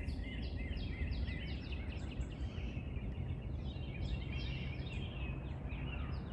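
Several wild songbirds singing and chirping at once, with quick downward-sweeping notes and one bird repeating a short arched note in runs of about three a second. A steady low rumble runs underneath.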